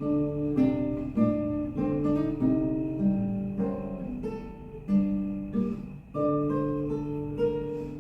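Acoustic guitar playing alone, plucked notes and chords that each ring and decay, in an accompaniment passage between sung phrases.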